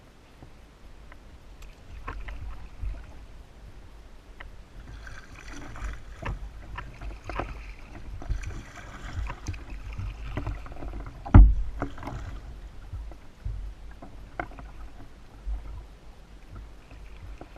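Kayak paddling: paddle strokes splashing in the water, with scattered knocks of paddle or body against the hull. There is one loud thump about eleven seconds in.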